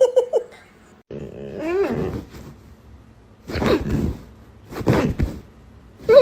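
A dog vocalising: a drawn-out call about a second in that rises in pitch, then two short harsh sounds, and a brief call near the end.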